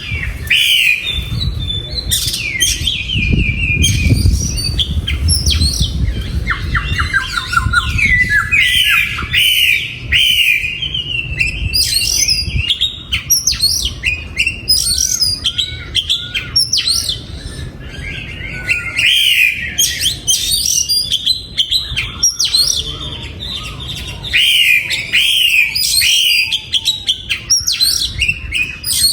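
Oriental magpie-robin singing: a nearly continuous stream of varied whistled phrases and quick chirps, with a low rumble under the first several seconds.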